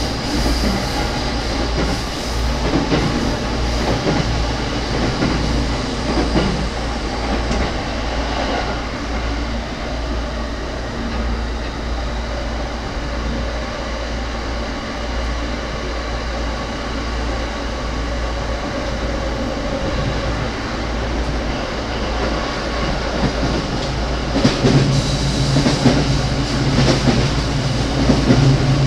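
The inside of an E231-series commuter train car running along the line: a steady rumble of wheels on rail. A low hum comes in near the end and grows louder.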